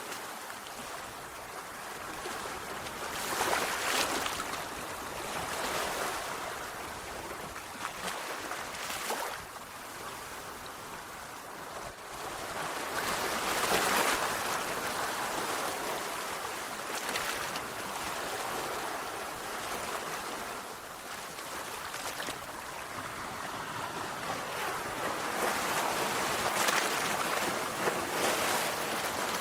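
Sea waves breaking and washing on a shore, a continuous rushing hiss that swells and ebbs as each wave comes in, with the strongest surge about halfway through.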